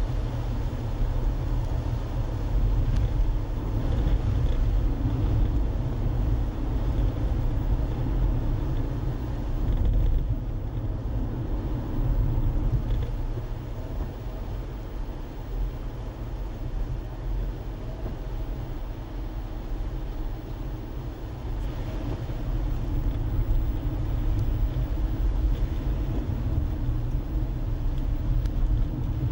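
Steady engine and tyre rumble of a car being driven, heard from the car itself, with the loudness rising and falling slightly as it goes.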